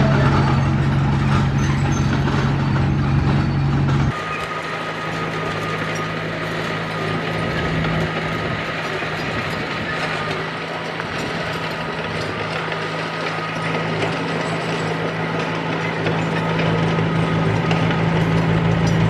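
Bulldozer's diesel engine running steadily, with mechanical clatter. About four seconds in the sound changes abruptly: the deep hum drops away, leaving a thinner engine note with a faint steady whine, and the deep hum comes back near the end.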